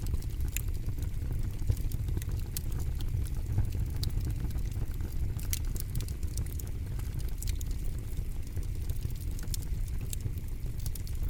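Campfire burning, with irregular sharp crackles and pops, several a second, over a steady low rumble of the flames.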